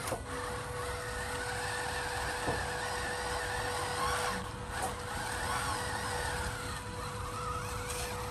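Radio-controlled truck's small electric motor and geartrain running, with a steady whine under pitch that rises and falls with the throttle, over scrabbling noise and a few clicks.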